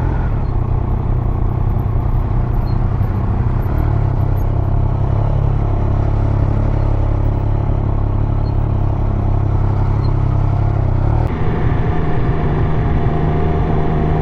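Triumph Speed Triple 1200 RS's inline three-cylinder engine running through its stock exhaust while riding. The note holds steady, then changes abruptly about eleven seconds in, where a steady higher tone sets in.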